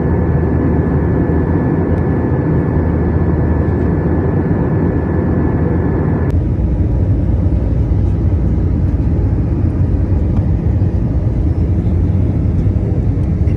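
Airliner landing: a steady, loud rumble of engines and rushing air, with a thin steady whine that cuts off abruptly about six seconds in, leaving a duller rumble.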